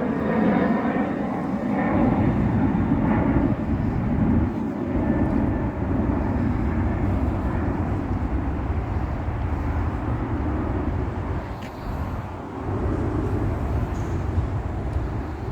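Motocross bike engine running as the bike is ridden, its sound swelling and easing, with a brief dip about twelve seconds in.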